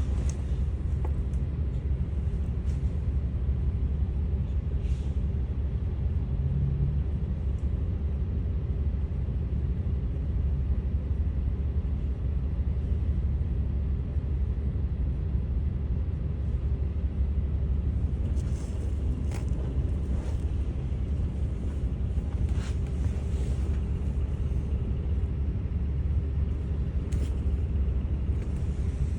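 Diesel engine of a Daewoo FX116 express bus running steadily, heard from inside the cabin as a deep drone with a steady hum above it. A few short sharp sounds break in during the second half.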